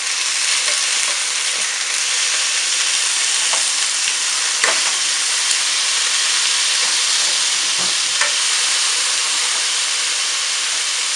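Chicken cutlets sizzling steadily in hot olive oil in a frying pan, with a few light clicks as a utensil turns the pieces over.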